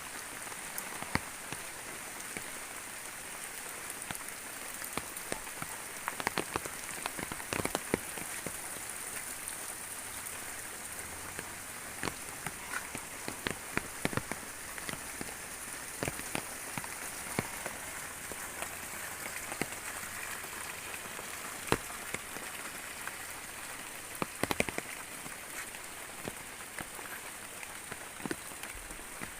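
Steady rainfall, with many sharp, irregular drop hits close by over the steady hiss.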